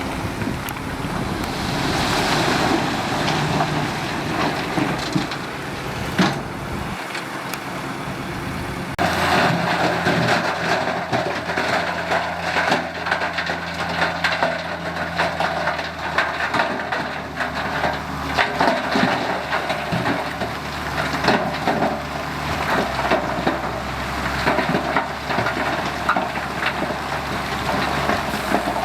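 Heavy diesel construction machinery running, with a steady low engine hum under continuous crunching and crackling of soil and stones. The sound changes abruptly about nine seconds in.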